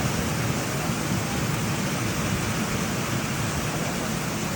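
Downpour of rain falling steadily, an even hiss.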